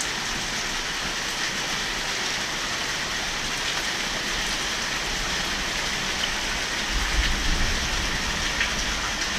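Heavy rain falling steadily. A low rumble joins in about seven seconds in.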